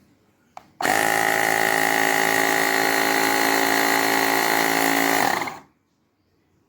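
Woowind AP2-P electric tyre pump switched on with a click and running steadily for about four and a half seconds, then winding down and stopping.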